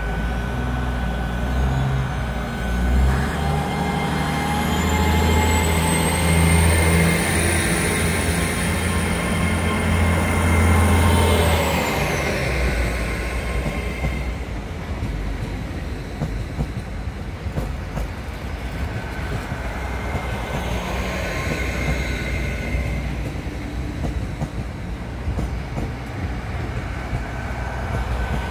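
Train running at a station platform: a deep rumble with a high-pitched squeal that rises, holds and falls away over about ten seconds. The rumble then eases to a lower steady drone.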